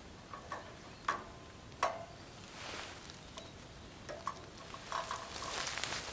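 Scattered light knocks and clicks, a few leaving a short ringing tone, with soft rustling between them.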